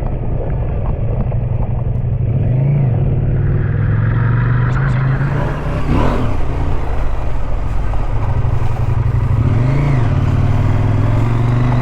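Adventure motorcycle engine running under way, its note swelling and dipping about three times as the throttle is worked, over steady wind and road noise.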